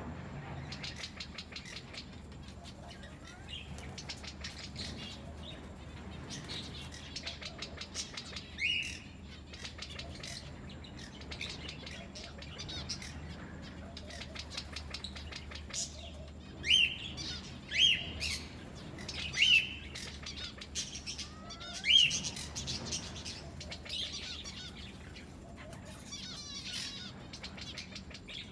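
A group of birds chirping and chattering continuously, with five loud, sharp calls standing out, four of them close together after the middle.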